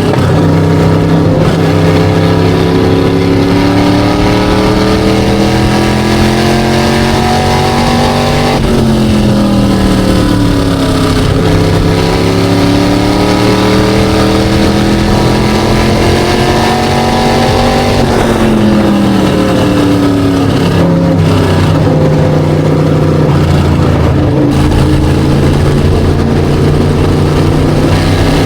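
SK Light modified race car's engine running hard at speed. The revs climb steadily, then drop sharply twice, about a third and two thirds of the way through, as the throttle comes off for the corners, then build again.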